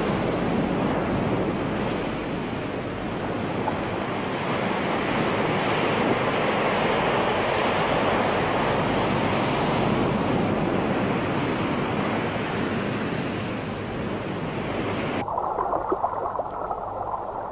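Sea water rushing and washing in a steady roar of waves. Near the end the sound turns duller and more muffled.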